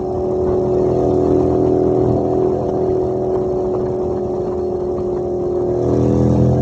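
Harley-Davidson motorcycle's V-twin engine running steadily under way, its note holding level, with a little more rumble and a slight rise about six seconds in.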